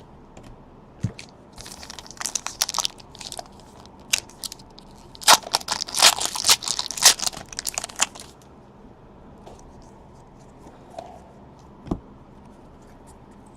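Crinkling and crackling of plastic or foil card packaging as trading cards are handled, in two bouts of rapid crackles, the second longer, with a few faint taps between.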